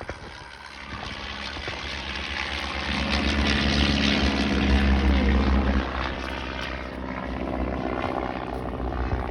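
Piston-engined propeller aircraft flying past at low level. The engine drone builds to a peak about five seconds in, drops in pitch as the aircraft passes, and fades.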